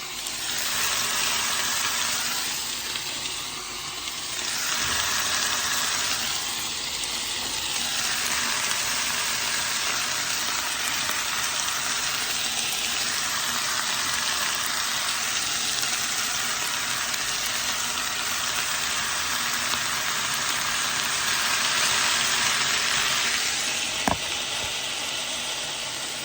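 Chicken, carrots and cabbage sizzling in a frying pan while being stir-fried, the sizzle swelling and easing as the food is stirred. A single sharp knock near the end.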